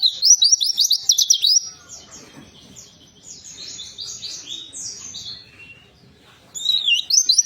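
White-eye (pleci) singing: a fast, loud run of high chirping notes, then a few seconds of softer scattered chirps, then another fast loud run near the end.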